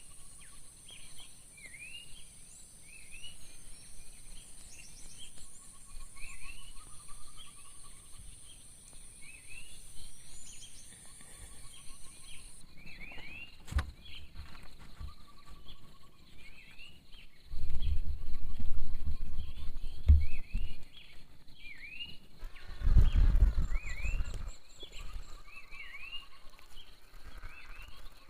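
Forest ambience: a bird repeating short, rising chirps over and over, with a steady high insect drone that cuts off about halfway through. Low rumbles come twice in the second half.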